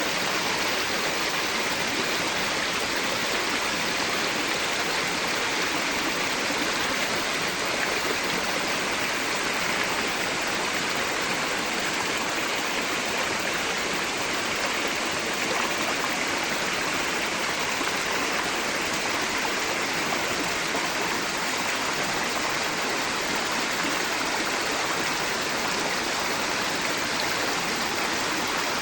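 A forest stream flowing steadily, a constant rushing of water.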